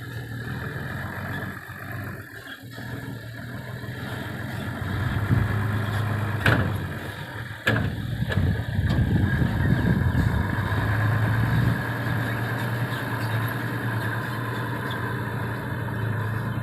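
Six-wheel dump truck's diesel engine running at a steady idle. Two sharp knocks come near the middle, about a second apart, and the engine runs louder for a few seconds after them before it settles back.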